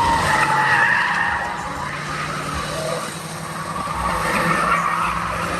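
Oldsmobile 442 doing a burnout: tires squealing loudly over the engine held at high revs. The squeal is loudest at the start, eases about three seconds in, then builds again.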